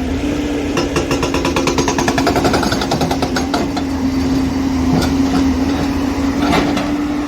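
JCB excavator's hydraulic rock breaker hammering on rock in rapid, even strokes starting about a second in, over the steady drone of the diesel engine.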